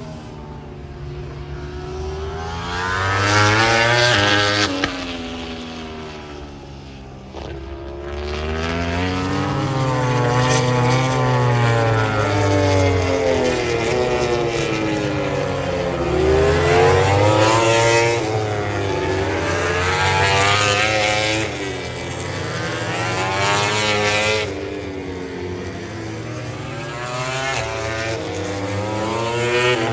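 MotoGP racing motorcycles passing at speed, their engines revving up and dropping back through gear changes, the pitch rising and falling as each bike goes by. Several passes, loudest about four seconds in and again through the middle of the stretch.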